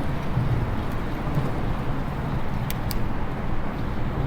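Steady low rumble of outdoor ride noise while riding an e-bike, with two short clicks a fraction of a second apart a little past the middle.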